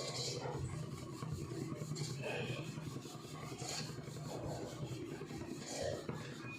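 Continuous rasping and rubbing, scraping strokes over a steady low hum.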